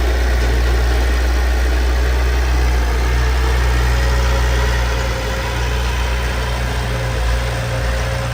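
Heavy diesel engine of a construction machine running steadily at a low, even speed, easing slightly about five seconds in.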